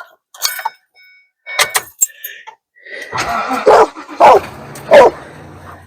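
A dog barking three times in quick succession, after a couple of sharp clicks.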